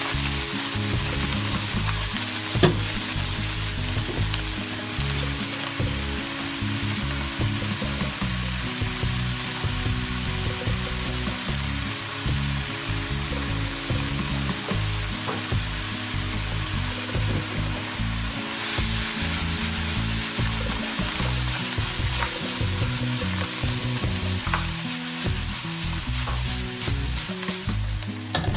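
Indian lettuce (A-choy) and minced garlic sizzling in hot oil in a nonstick wok while a spatula stirs and tosses them. There is one sharp knock about two and a half seconds in.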